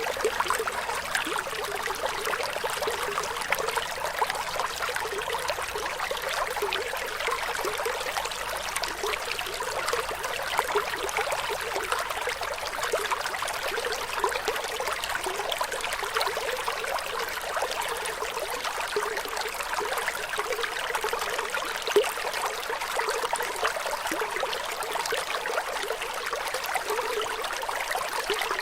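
Running water flowing steadily, with a constant trickling, splashing texture and little low rumble. One slightly louder splash comes about three-quarters of the way through.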